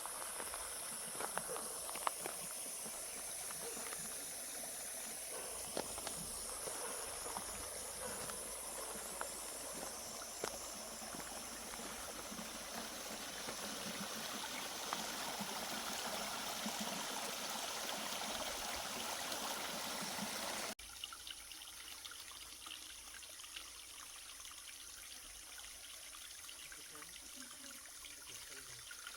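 Outdoor nature ambience: a steady high insect drone with trickling water beneath it. The whole sound drops abruptly and gets quieter about two-thirds of the way through.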